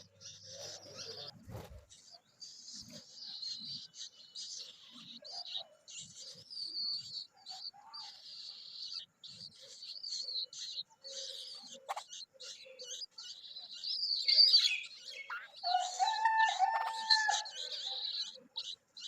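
Young bulbuls chirping: a steady stream of short, high-pitched chirps, with a louder, lower drawn-out bird call near the end.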